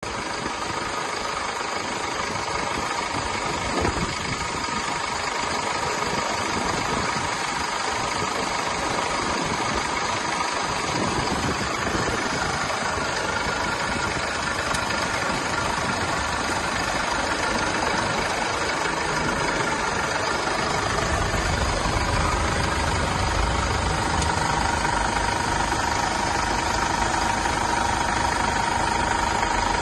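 Mercedes-Benz Sprinter van engine running steadily at idle, with a brief click about four seconds in. About two-thirds of the way through, its low rumble grows stronger.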